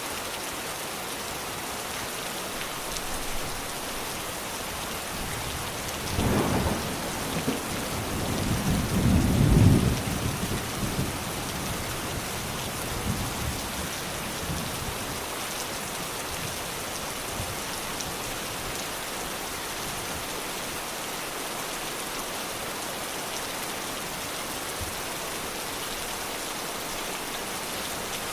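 Steady rain falling, with two low rolls of thunder: one about six seconds in, and a louder, longer one peaking near ten seconds.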